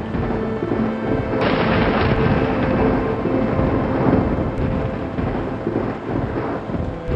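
Thunderstorm: rolling thunder over steady rain, with a heavier rumble swelling about a second and a half in. A soft sustained music pad runs underneath.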